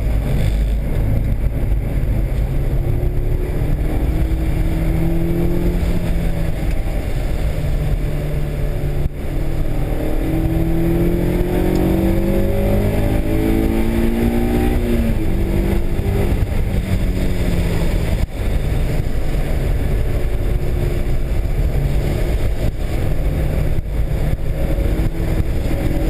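Honda S2000's four-cylinder engine at speed on track, heard from inside the car over loud road and wind rumble, its pitch climbing several times in a row about ten seconds in as the car accelerates.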